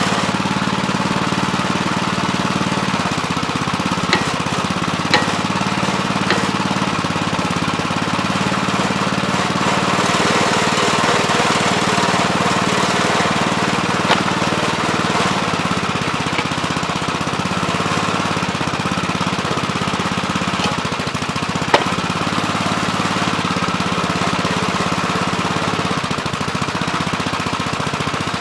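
Gravely Terramite compact backhoe's engine running steadily under load while digging, with a few sharp metallic clanks scattered through, loudest about 22 seconds in.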